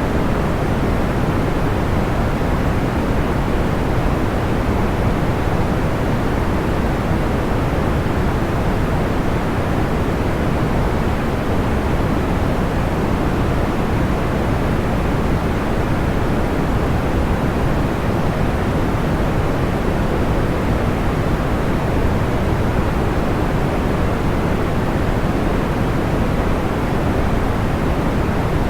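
Steady, even, deep hiss of pink-style white noise, unchanging throughout, with no separate crackles or pops standing out.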